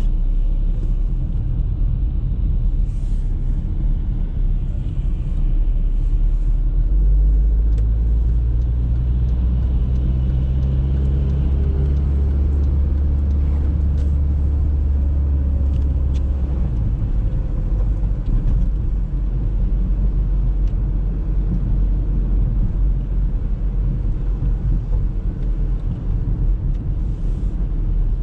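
Audi A3 being driven, with a steady low engine and road rumble. The engine hum grows louder about a quarter of the way in and eases back a little after the middle.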